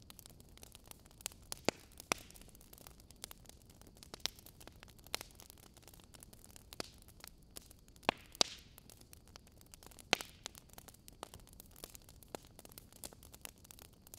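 Wood fire crackling: irregular sharp pops and snaps over a low, steady hiss, with a cluster of louder pops a little past the middle.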